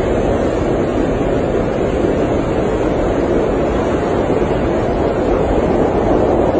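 Blizzard wind heard from inside an RV: a steady, even, low rushing noise with no separate events.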